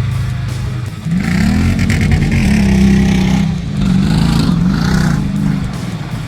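Tough truck's engine revving hard, its pitch climbing and dropping several times. A steady low engine drone comes before the revving starts about a second in.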